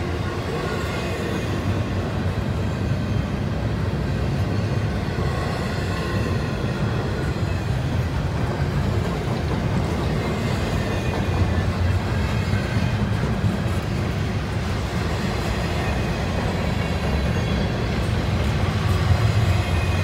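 CSX double-stack intermodal freight train's well cars rolling past: a steady, continuous rumble of steel wheels on rail, growing a little louder near the end.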